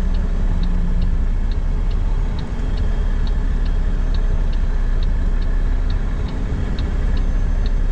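Steady low rumble of a truck engine heard from inside the cab while reversing, with the regular ticking of the indicator flasher.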